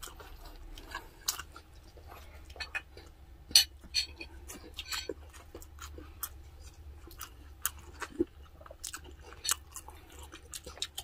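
Chewing of braised pork spareribs and rice: a man eating by hand, with many short, irregular mouth clicks.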